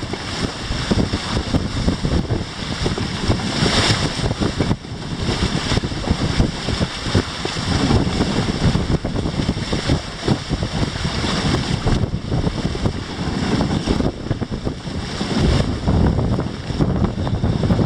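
Wind buffeting the microphone and water rushing along the hulls of a Grabner Happy Cat Hurricane inflatable catamaran sailing fast in a 17–22 knot breeze. The noise is steady and loud, surging and easing every second or so.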